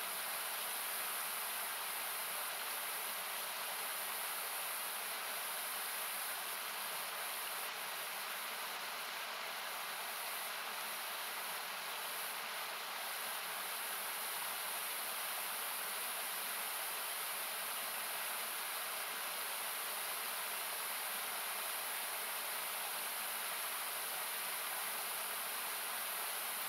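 Steady rushing noise of a river, perhaps a waterfall, thinned by equalization so that it sounds like hiss. A few faint crackles of a wood campfire come through it.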